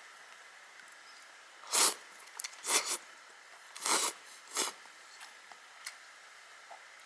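A person slurping instant ramen noodles: four short, loud slurps about a second apart.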